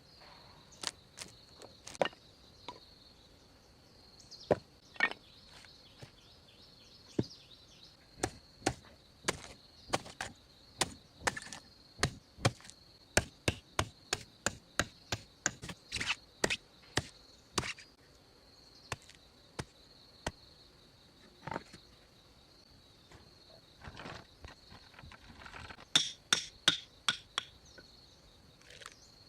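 Irregular sharp knocks of hand tools striking wood, in quick runs of blows with short pauses, over a steady high insect drone.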